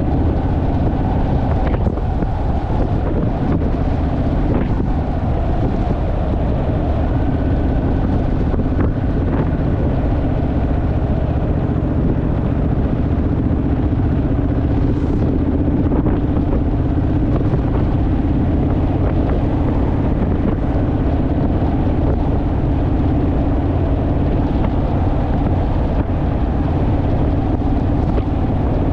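Honda Rebel parallel-twin motorcycle engine running steadily at cruising speed, its drone holding an even pitch, with wind rushing over the microphone.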